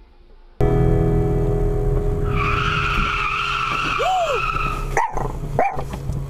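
Car cabin noise from a dash cam: a steady engine and road hum, then tyres screeching for about two and a half seconds, ending in two sharp knocks about five seconds in.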